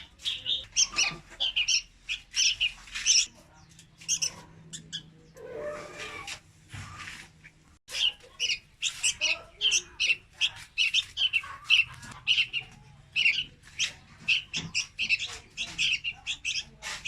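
Young red-whiskered bulbuls calling: a rapid string of short, high chirps, several a second. About five seconds in they break off for a couple of seconds while a lower, rougher sound takes over, then the chirping resumes.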